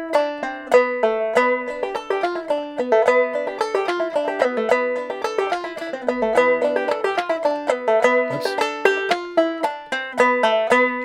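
Five-string banjo played clawhammer style in gEADE tuning, picking a quick melodic harmony line to the tune's riff, note after note with a ringing drone.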